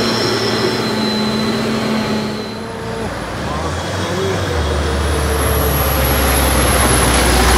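A heavy truck's diesel engine running under load, with a low engine note that comes in about halfway through and grows louder toward the end.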